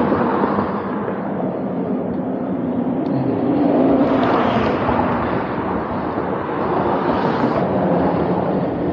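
A vehicle driving along: steady road and wind noise with a low, even hum underneath.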